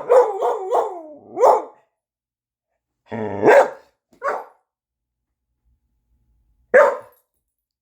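A dog "talking": a quick run of short, pitched, wavering yowling barks at the start, then single yowls spaced out over the next several seconds, one near the end.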